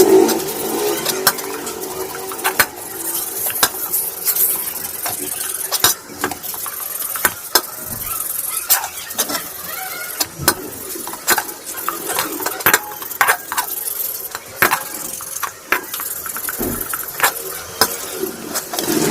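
Metal parts of a car AC compressor clinking and scraping while they are cleaned of rust: irregular sharp clicks and knocks over a steady hiss.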